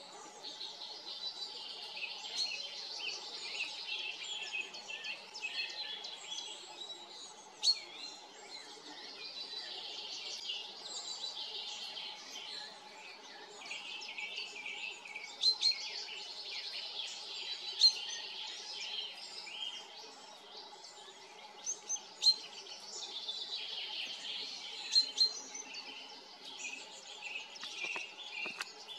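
Several songbirds singing continuously in overlapping phrases, high-pitched and rising and falling in waves, with a handful of sudden sharp clicks standing out louder now and then.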